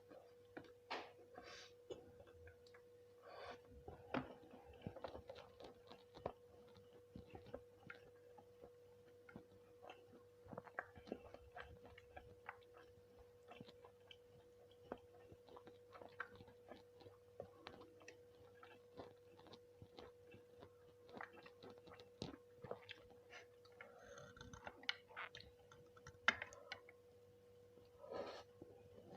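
Close-up chewing and mouth sounds from eating nasi kucing, with many small irregular clicks and smacks. A faint steady hum runs underneath.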